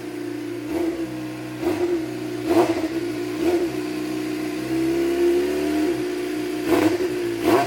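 Motorcycle engine idling with the throttle blipped in quick revs: four short blips about a second apart in the first few seconds, then two more near the end, each rising and falling back to idle.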